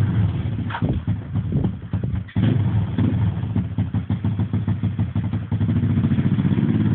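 Pit bike engine running and revving unevenly with throttle blips, then held at steadier, higher revs from about two and a half seconds in, dropping off at the end.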